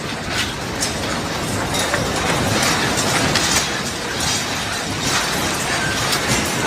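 Continuous rattling and clattering of loose objects during earthquake shaking, a dense racket of many small knocks.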